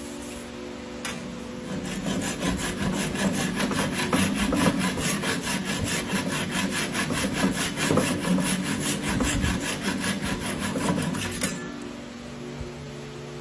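Hand pull saw cutting wood in quick, even strokes. The sawing stops about a second and a half before the end.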